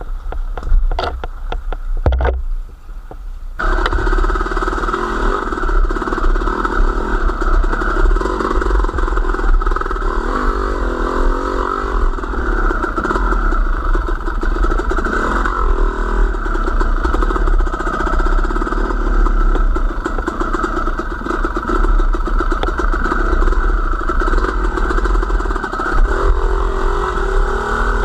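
Gusty noise and a few knocks, then about three and a half seconds in a steady motor-vehicle engine sound sets in suddenly and runs on evenly with a deep rumble.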